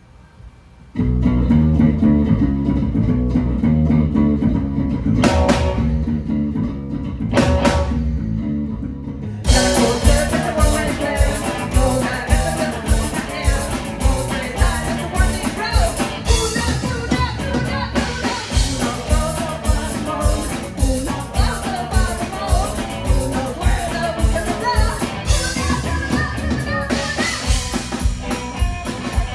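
Live rock band starting a song: a low guitar-and-bass intro with two hits, then the drum kit comes in with a steady beat about ten seconds in and the full band plays on.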